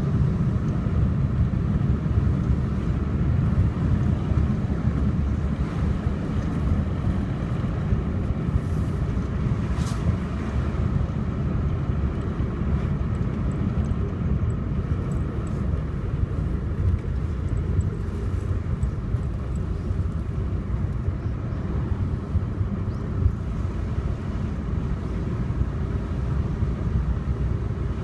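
A car driving at a steady pace: a continuous low rumble of engine and tyre noise.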